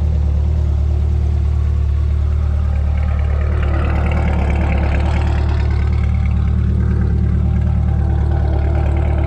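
Twin-turbocharged C8 Corvette's 6.2 L LT2 V8 idling steadily through a catback exhaust with an X-pipe and twin 4-inch tips.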